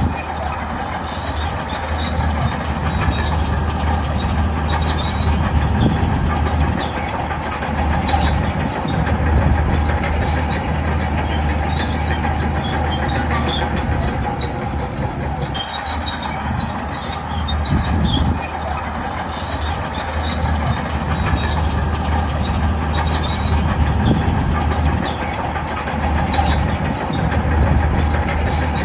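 Shantui crawler bulldozer's diesel engine running under load, with the steel tracks clanking and squealing; the sound swells and eases every few seconds as the machine works.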